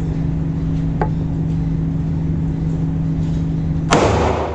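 A steady low hum with a faint click about a second in, then a single loud shot from a Ruger EC9s 9mm pistol near the end, with a short echo after it.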